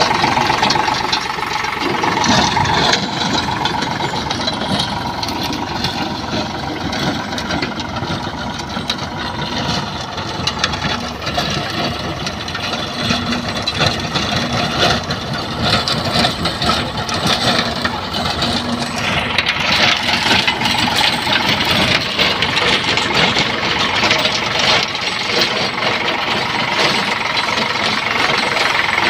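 Eicher 548 tractor's diesel engine running steadily, its sound growing harsher and a little louder about two-thirds of the way through.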